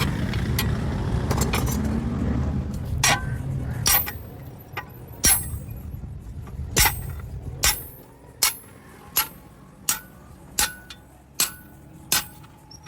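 A steady rushing noise for the first few seconds, then a hammer striking metal on an anvil in a regular rhythm, each blow ringing briefly. The blows start a little over a second apart and quicken to nearly one a second.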